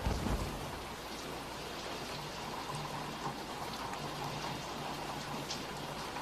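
Steady rain falling, with faint patters of drops and a brief low rumble of thunder right at the start.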